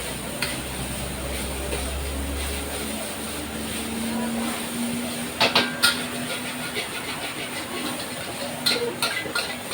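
Steady hiss from a fried-rice stall, with sharp metal clanks typical of a spatula striking a wok, a cluster about five and a half seconds in and another near the end. A low rumble under it stops about three seconds in.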